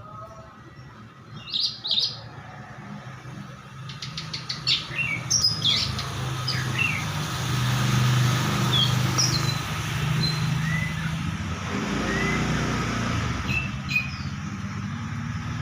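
Orange-headed thrush (anis merah) singing in short chirps and quick whistled, sliding notes, with a low steady hum underneath; the keeper calls the caged bird 'teler', the calm, settled state in which it sings freely.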